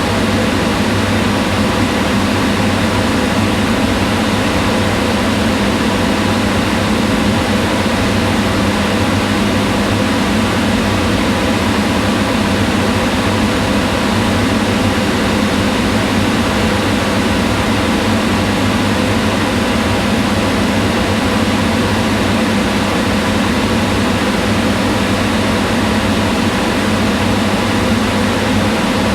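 Kitchen range hood exhaust fan running steadily: a constant rush of air with a low hum and a few faint steady tones.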